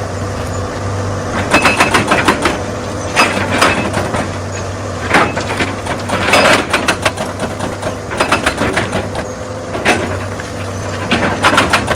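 Excavator's diesel engine running steadily, with repeated bursts of rocks knocking and clattering against one another and the machine as stone is moved and broken.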